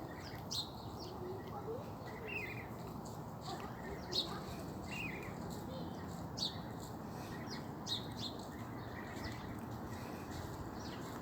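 A flock of small birds chirping, with short, separate calls scattered throughout and a few sharper, louder chirps standing out, over a steady low background hum.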